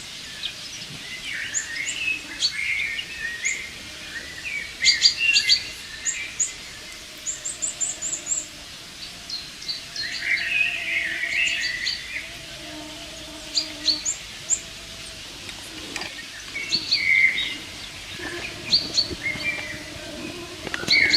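Songbirds singing and chirping throughout: quick runs of high chirps and lower warbling phrases, coming and going.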